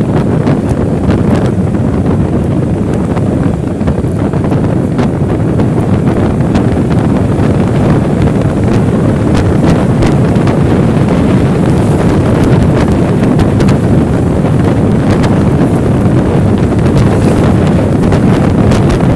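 Strong wind buffeting the microphone: a loud, steady low rumble with scattered crackles.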